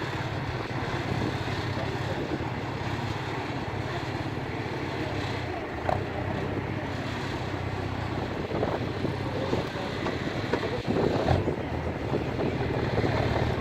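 Off-road truck's engine running, a steady low drone.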